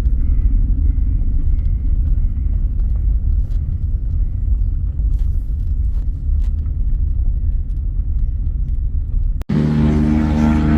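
A car driving, with a steady low rumble. About nine and a half seconds in it cuts abruptly to a steady engine drone with a clear pitch.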